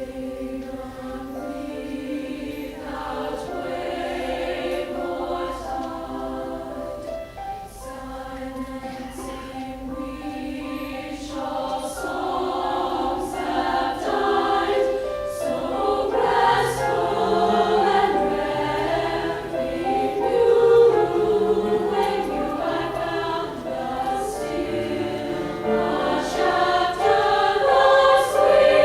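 Women's choir singing a slow piece with piano accompaniment, growing gradually louder.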